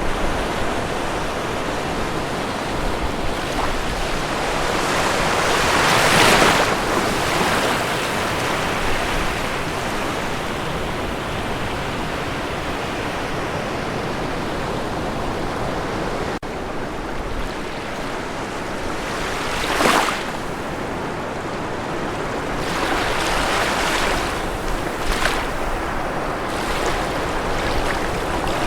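Ocean waves breaking and washing on a shore, a steady rush of surf with waves swelling up about six seconds in, again around twenty seconds, and a few times near the end.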